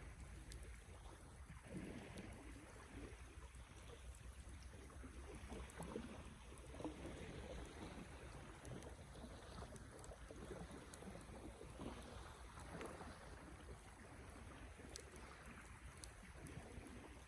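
Campfire burning faintly, with a soft rushing noise and scattered small crackles and pops from the wood.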